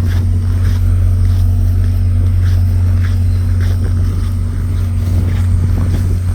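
Diesel passenger locomotives idling at a standstill: a loud, steady low drone with faint light clicks over it.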